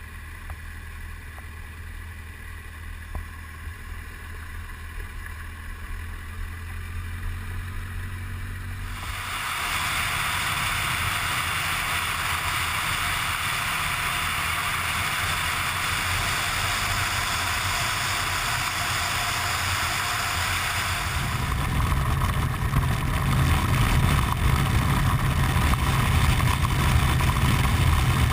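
Boat motor out on a lake, running steadily as a low hum that grows louder. A hiss joins in about nine seconds in, and the hum strengthens again about twenty seconds in.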